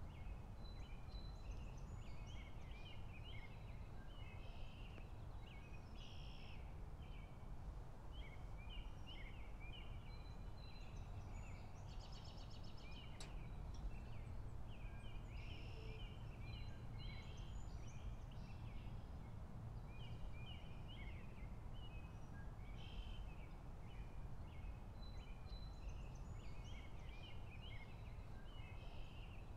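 Faint birds chirping in short, repeated calls over a low, steady background hum.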